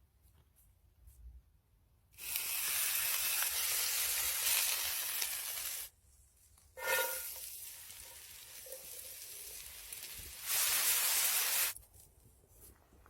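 Food sizzling on hot metal over a fire, in loud hissing stretches that start and stop abruptly, with a short squealing note about seven seconds in.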